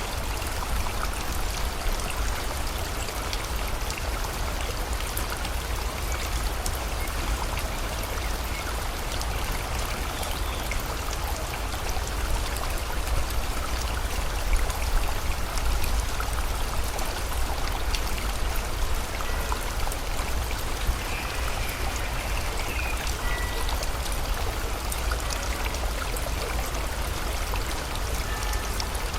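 A river flowing steadily with rain pattering, the drops heard as many small ticks over the rushing water. A few faint high bird calls come in the second half.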